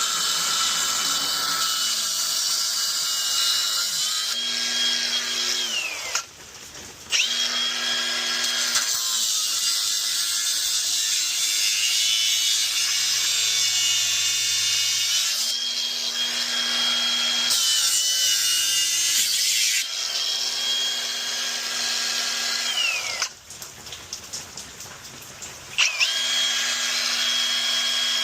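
Electric power tool, a drill or saw working on a repipe, running in long stretches with a high motor whine that spins up and winds down. It stops briefly about six seconds in and again for a few seconds near the end.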